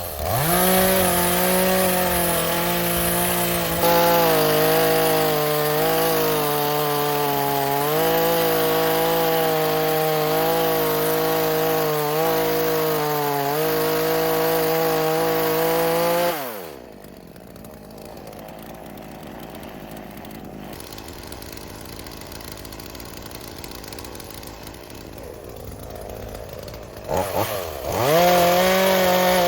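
Chainsaw running at high revs, cutting wood, its pitch wavering under load. About halfway through it drops to idle for about ten seconds, then revs up again near the end.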